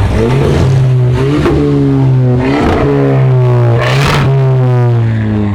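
A car engine revved several times in quick blips, each climbing and dropping back. The last and highest rev, about four seconds in, falls away slowly toward idle.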